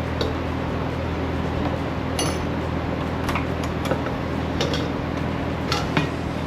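Hand tools clinking against metal parts in a few irregular light clicks, the sharpest about two seconds in, while work starts on the carburetor. Under them runs a steady low machine hum.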